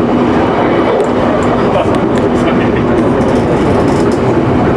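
Electric local train running along the line, heard from inside: a steady rumble of wheels on rail with a low, even hum underneath.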